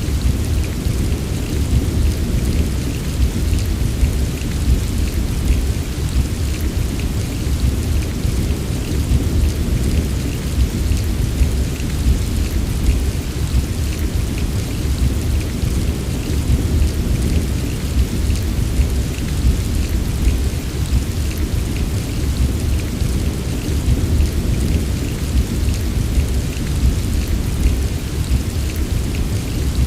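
Steady heavy rain, a dense patter of drops over a continuous deep low rumble, with no single thunderclap standing out.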